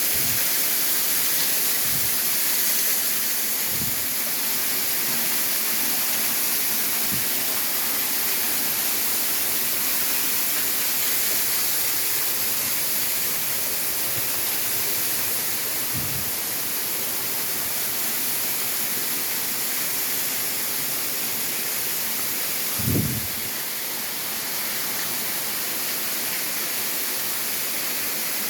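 Steady rush of falling water from a waterfall, an even hiss. A few soft low bumps break through, the strongest near the end.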